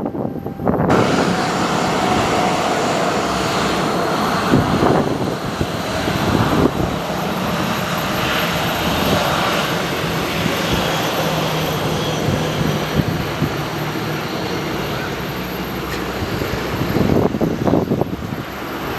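Aircraft engines running loud as an airliner passes close by, starting suddenly about a second in, with gusty wind buffeting the microphone.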